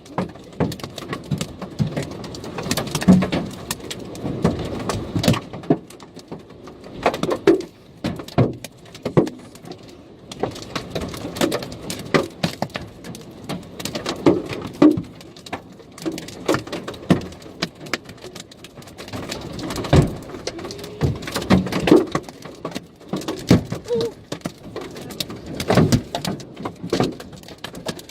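Hail falling hard: a dense, irregular clatter of hailstones striking hard surfaces, some hits much louder than others, over a steady rushing patter.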